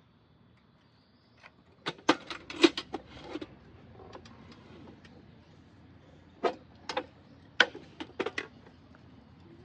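Irregular clinks and knocks of small objects being handled, in two clusters: one about two seconds in and another past the middle.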